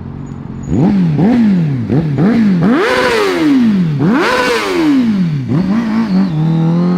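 Honda CBR1000RR-R Fireblade's 999cc inline-four engine being revved while stationary: about a second in, four quick blips of the throttle, then two longer, higher revs and a smaller one, before it settles to a steady note near the end.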